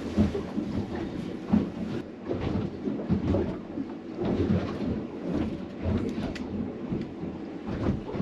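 Wind buffeting the microphone in irregular low rumbles and gusts, with a few short knocks.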